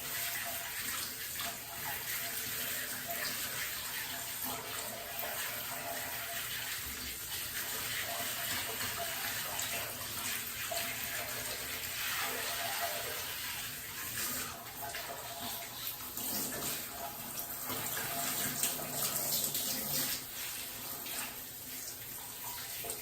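Running water pouring and splashing steadily, with uneven swells in the splashing.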